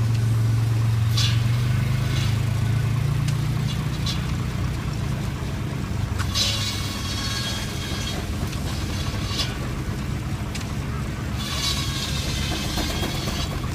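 Shingle mill running off a single-cylinder Frick steam traction engine: a steady low drone, broken by high rasping bursts, with the longest about six and eleven seconds in.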